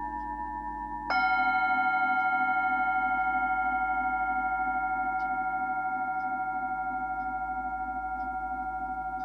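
Himalayan singing bowls ringing. One bowl's ring fades out as another is struck about a second in, and its bright, layered tone rings on with a slow wavering pulse, gradually fading.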